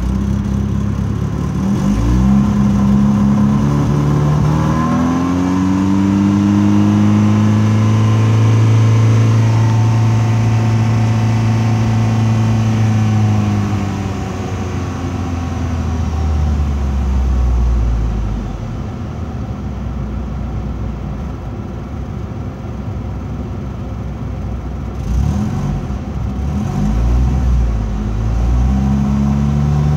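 Honda car engine running on compressed natural gas after a CNG conversion, revved up and held high at about 3,000 rpm, then falling back to idle. Near the end it is blipped a few times and revved again. The owner finds it idles with a slight shake on gas, which he puts down to the system and injectors not having run for a long time.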